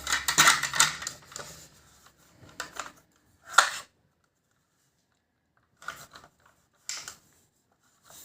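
Plastic toilet-cistern fittings being handled: clattering and clicking in the first second, a sharp knock about three and a half seconds in, then a few seconds of silence and a few more light clicks near the end.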